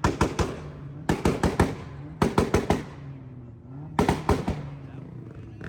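A car's exhaust popping and crackling: four quick volleys of sharp bangs, about a second apart, over the steady note of the running engine.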